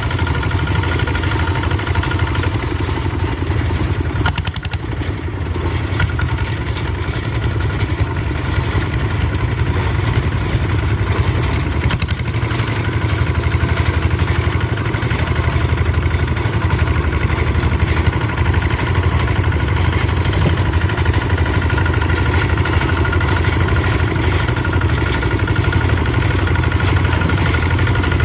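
Tractor engine running steadily under way, with a rapid low chugging and some clatter.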